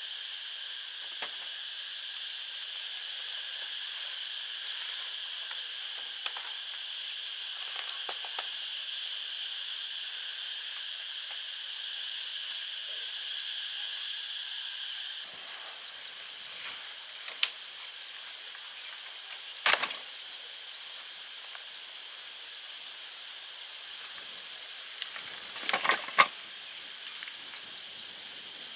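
Steady outdoor chorus of insects, shrill and unbroken, with a few sharp knocks and clatters in the second half.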